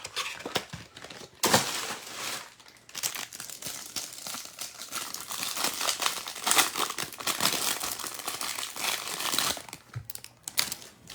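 Plastic wrapping around a stack of trading cards crinkling and crumpling as it is torn open and pulled off by hand. It starts abruptly about a second and a half in and stops shortly before the end.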